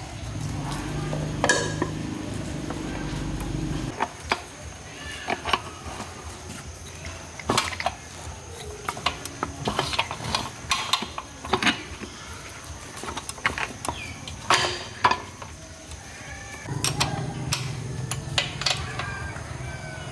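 Metal utensils clinking and scraping against a pan in short sharp knocks, with a steady low hum of frying for the first few seconds that stops and comes back near the end.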